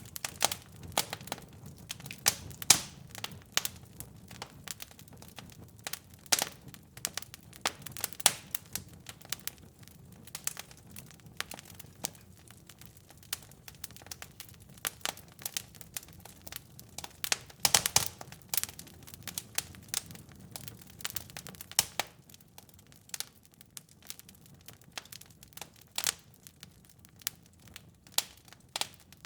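Wood fire crackling, with irregular sharp pops and snaps over a low rumble of burning; the pops are denser in the first two thirds and sparser near the end.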